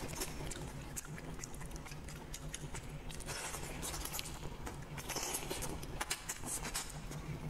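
Close-miked eating sounds of a person gnawing and chewing braised rooster head: many small wet smacks and sucking clicks of lips and teeth on soft meat.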